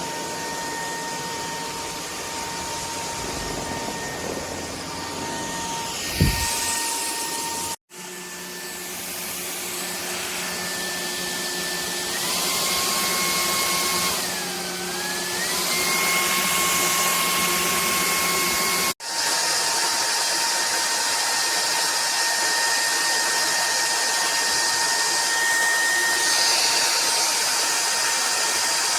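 Cordless stick vacuum cleaner motor running with a steady high whine over the rush of air. Its pitch steps up and dips briefly around the middle, and it drops out twice for an instant. There is a single knock about six seconds in.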